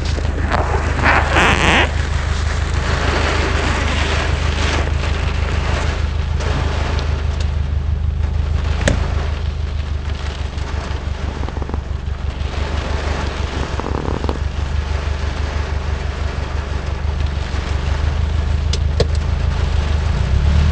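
Car driving in heavy hurricane rain, heard from inside the cabin: a steady low engine and road drone under the hiss of rain and tyres on the wet road. A louder rush of water noise comes about a second in, and there are a few sharp clicks.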